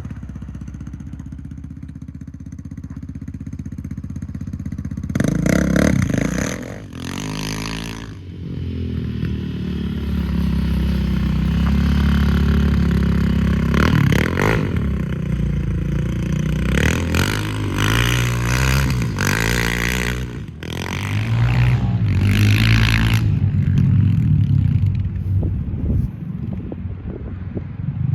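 Yamaha Raptor 700 ATV's single-cylinder four-stroke engine being ridden. It runs at a steady low speed, then revs up in louder surges about five seconds in and again around the middle and later part, with the pitch rising and falling as the throttle opens and closes.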